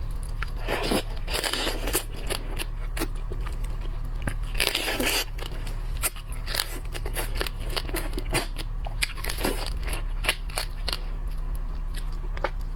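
Close-up eating of shellfish: crunching and cracking of shell with chewing, a string of sharp clicks and snaps, and two longer crunches, about a second in and around five seconds in.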